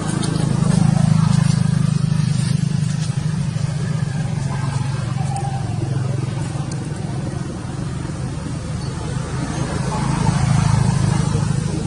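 Steady low engine hum of a motor vehicle, growing louder about a second in and again near the end.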